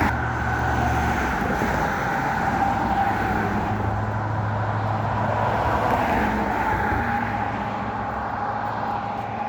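Car driving at a steady pace: continuous engine and road noise with a low hum.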